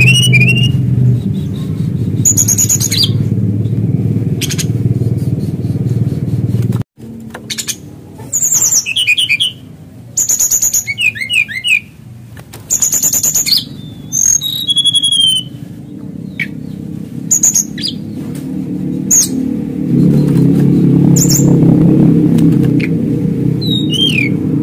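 Male brown-chested jungle flycatcher singing: short, clear whistled phrases every second or two, mixing high notes with quick falling notes. A loud low rumble runs under the song for the first seven seconds, cuts off abruptly, and comes back near the end.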